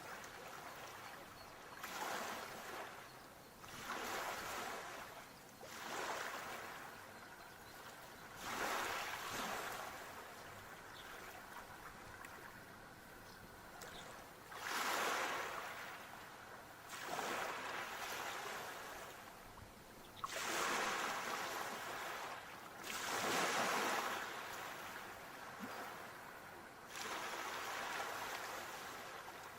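Sea waves breaking and washing in, one surge every two to four seconds, with a steady hiss of water between them.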